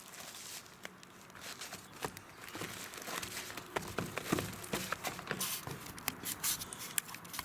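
Rustling and light clicks and knocks of the assortment's cardboard fountain fireworks and their packaging being handled and set down, busier in the second half.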